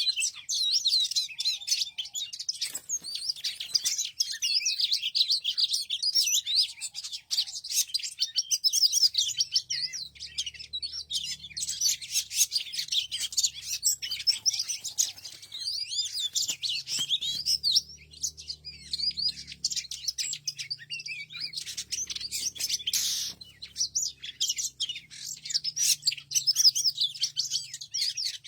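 Many small birds chirping continuously, with rapid, high-pitched calls overlapping one another. A faint low hum joins in from about ten seconds in.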